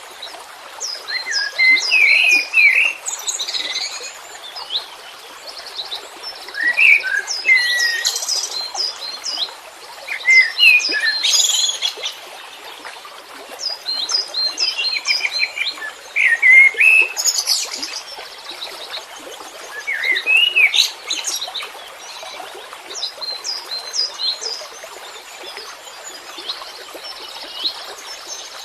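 Songbird singing in repeated bursts of rapid high chirps and short whistles, a new burst every few seconds.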